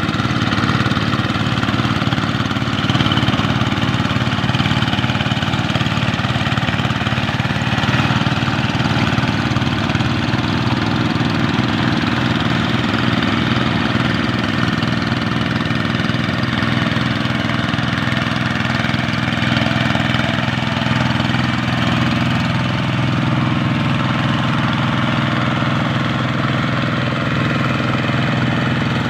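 Kubota RD85 single-cylinder diesel engine of a two-wheeled hand tractor running steadily, with an even, rapid beat of its firing strokes.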